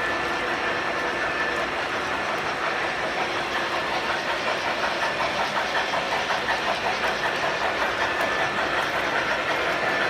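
Model train running on the layout's track: a steady high whine over rolling noise, with a rhythmic clicking of about five a second setting in about four seconds in.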